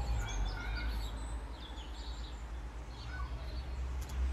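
Several birds chirping in short calls over a steady low rumble of outdoor background noise.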